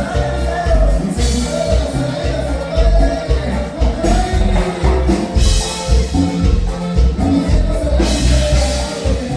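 Norteño band music with a steady, even bass beat under a melody line, with cymbal crashes here and there.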